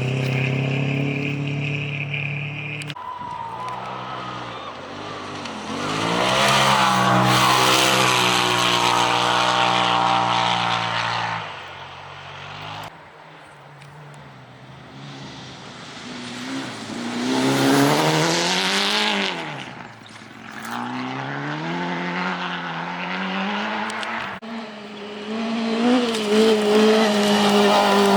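Rally vehicle engines revving hard, their pitch climbing under acceleration and dropping between gears. The sound changes abruptly several times, from one vehicle to another.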